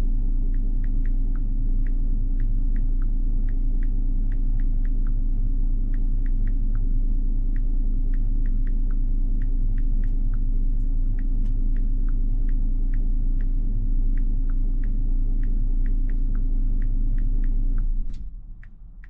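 A vehicle engine idling steadily with a low hum and scattered light ticks over it, then shut off about 18 seconds in.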